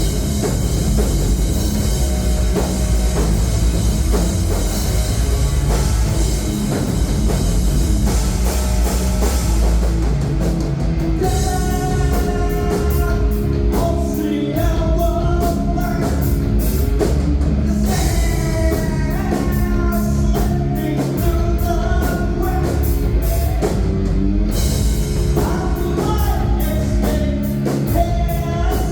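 Live heavy rock band playing loud: distorted guitars, bass and drum kit. About eleven seconds in the band switches to a stop-start chugging rhythm with a melodic line over it.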